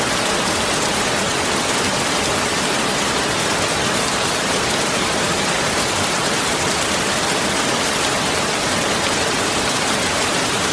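Steady heavy rain falling, a constant even hiss of drops.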